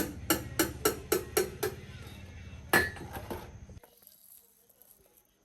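Hammer blows on metal: a quick run of about seven strikes at roughly four a second, then one louder blow, over a motor running steadily that cuts off abruptly near the end.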